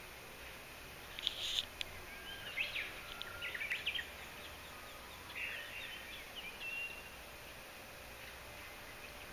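Japanese bush warbler and other small birds singing, in short phrases of sweeping chirps and whistled notes from about a second in until about seven seconds in, over a faint steady outdoor hiss.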